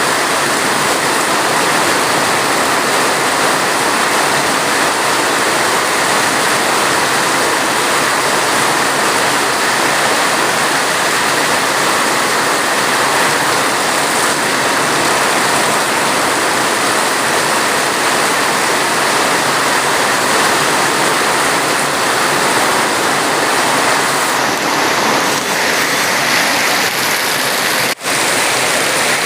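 Steady heavy rainfall, a dense even hiss with no breaks except one brief dip in level near the end.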